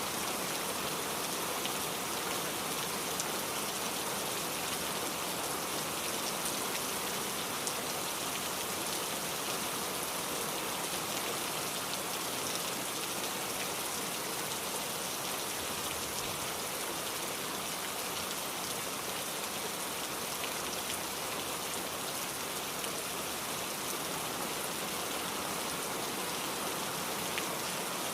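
Steady rain, an even hiss of falling water with scattered small drop ticks.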